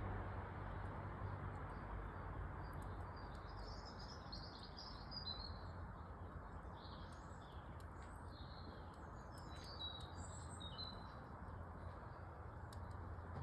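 Small birds chirping and twittering in quick bursts of high notes, busiest through the middle, over a steady low hiss with a few faint clicks.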